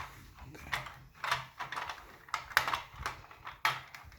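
Plastic parts of a model engine kit being handled and fitted together: a series of irregular clicks and knocks as the crankcase halves are lined up.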